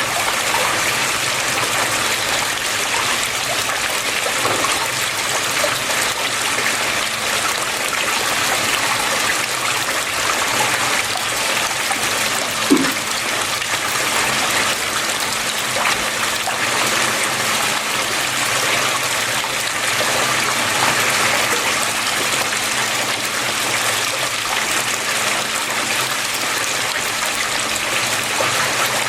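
Water flowing steadily, an even rushing trickle, with a faint low hum underneath. A single brief low thump about twelve seconds in.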